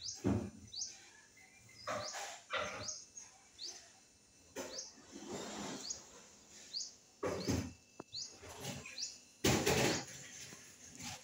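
Small bird chirping again and again in short, high notes that each drop in pitch, with several brief noisy bumps in between, the loudest about nine and a half seconds in.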